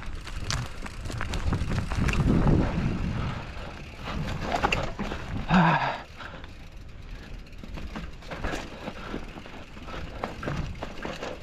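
Mountain bike rolling fast down a rough dirt trail: tyres rumbling over ground and stones, with frequent rattles and knocks from the bike as it hits bumps. The loudest moment is a brief, sharper sound about halfway through.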